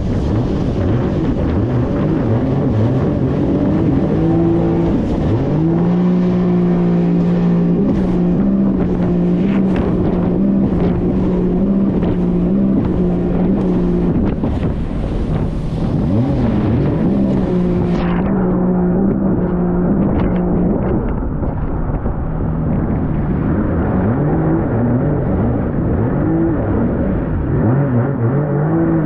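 An 1800cc jet ski's engine running hard under a dense rushing noise. Its pitch swings up and down with the throttle at first, then holds steady for several seconds as if flat out, then wavers again near the end.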